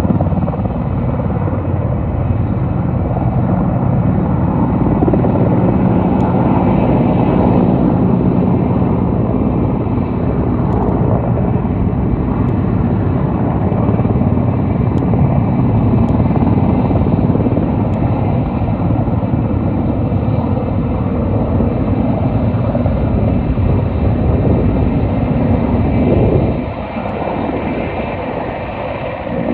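Firefighting helicopter hovering low over the water while it fills up, its rotor and engines running loud and steady with a high whine above the rumble. The sound drops somewhat about 26 seconds in.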